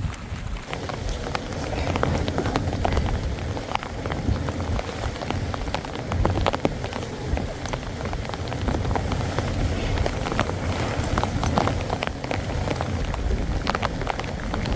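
Heavy rain drumming on an inflatable tent's fabric, a dense patter of individual drop hits that grows louder about two seconds in.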